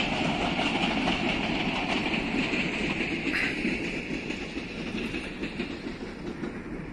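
Passenger train rolling away across a rail bridge, the noise of its wheels on the track fading steadily as it recedes.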